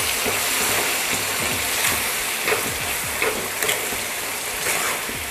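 Chickpeas in onion-tomato masala sizzle in a kadhai while a metal ladle stirs them, scraping and knocking against the pan a few times. The masala is frying down until the oil separates.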